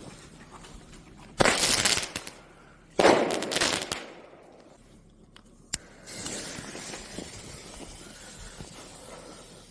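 Airbomb fireworks going off: two loud blasts about a second and a half apart, each fading over about a second, then a single sharp crack and a fainter noisy tail.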